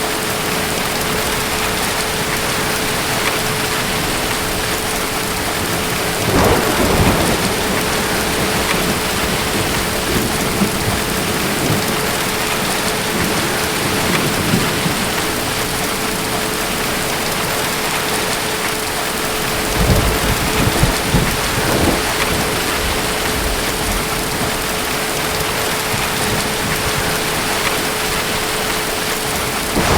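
Steady heavy rain with two rolls of thunder, one about six seconds in and another about twenty seconds in, over a faint steady tone.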